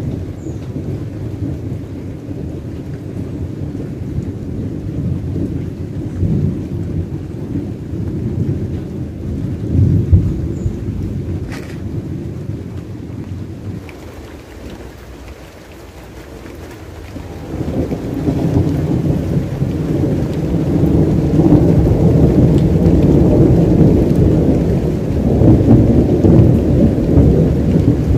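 Thunder rumbling in long rolls over rain, picked up by a phone's microphone. The rumble eases off about halfway through, then builds again and stays loud toward the end.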